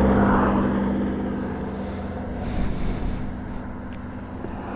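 Yamaha MT-09 inline-three motorcycle engine with an aftermarket exhaust running with a steady note. It is loudest at the start and eases off gradually over the next few seconds.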